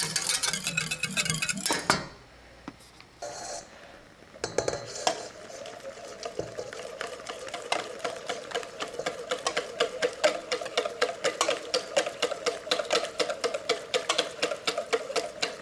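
A whisk beating a mixture in a mixing bowl, with fast, even clicks of the wires against the bowl at about four strokes a second. It goes briefly quiet about two seconds in, then picks up again.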